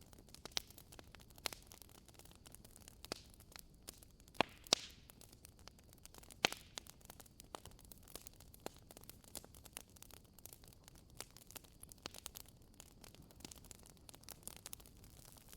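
Wood fire burning in a fireplace, crackling with irregular sharp pops over a faint steady hiss; the loudest pops come a little over four seconds in and again around six and a half seconds.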